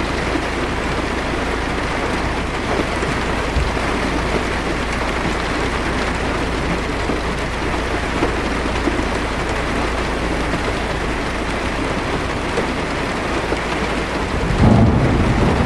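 Heavy rain beating steadily on a car's roof and windshield. A low thunder rumble rolls in near the end.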